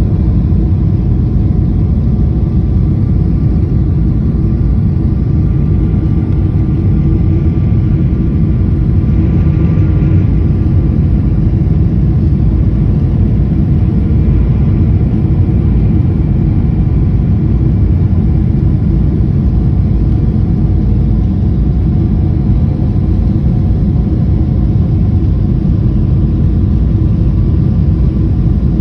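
Steady loud rumble of a Boeing airliner heard inside the passenger cabin: jet engine and airflow noise, with faint steady whining tones above it.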